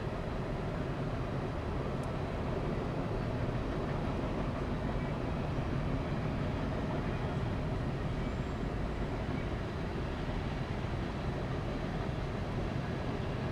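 Freight cars rolling past at steady speed: a continuous rumble of steel wheels on the rails, with no break or change.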